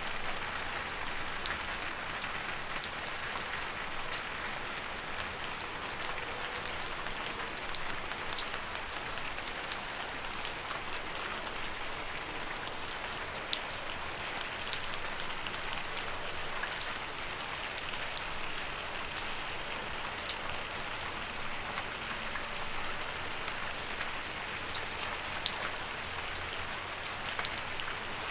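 Steady rain falling, a continuous hiss with scattered sharper ticks of individual drops striking a surface.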